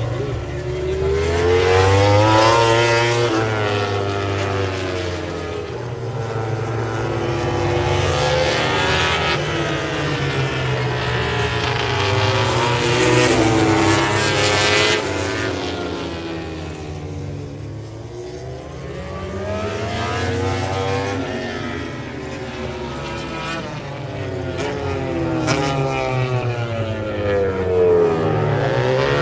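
MotoGP racing motorcycles, 1000 cc four-cylinder prototypes, passing one after another at high speed. Each engine rises and then falls in pitch as it goes by, with several passes swelling and fading in turn.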